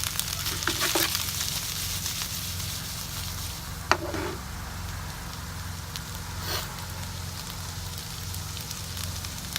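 Chicken, asparagus and tomatoes sizzling in a frying pan with basil pesto, just after the vegetables go in, over a steady low hum. A single sharp tap sounds about four seconds in.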